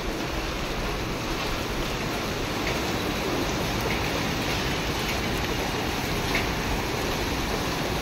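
Heavy rain falling steadily: an even, continuous hiss of rain with a few faint drop ticks.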